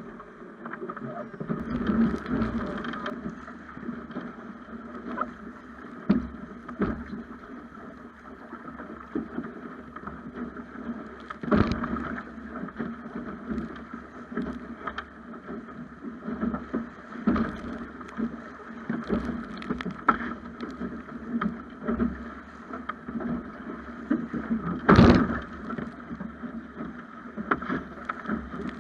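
Water rushing and slapping against the hull of a Snipe sailing dinghy under way, with irregular knocks and splashes, one much louder splash near the end.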